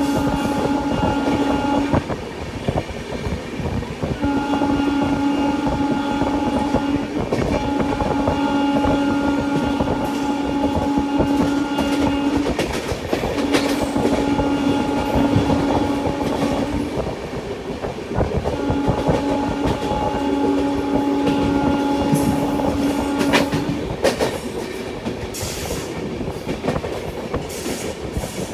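A train's horn sounds in five long blasts of a few seconds each, one steady pitched tone of unchanging pitch, over the continuous rumble and clickety-clack of the train's wheels on the track. The blasts stop about four seconds before the end, leaving only the running noise.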